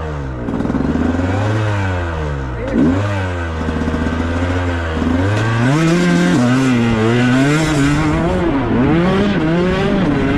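Motocross dirt bike engines revving, the pitch climbing and dropping again and again with the throttle, with more than one engine heard at once.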